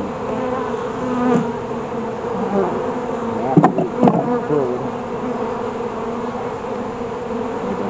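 Honeybees buzzing around an opened hive, a steady dense hum. Two sharp knocks a little past halfway.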